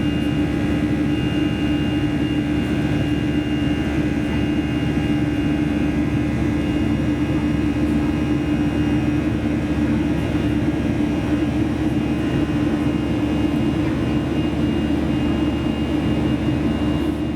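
Cabin noise aboard a Boeing 737-300: its CFM56-3 jet engines run steadily under a constant rush of airflow, with a strong steady hum and fainter whining tones that hold their pitch.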